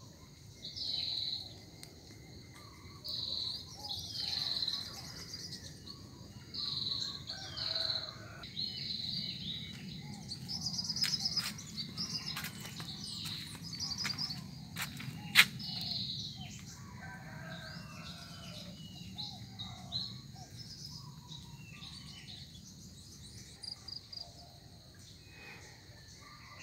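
Small birds chirping, short calls repeating every second or two, over a low steady rumble, with one sharp click about fifteen seconds in.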